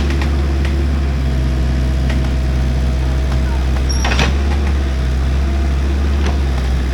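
A large engine running steadily with a deep drone, with a sharp knock or clank about four seconds in.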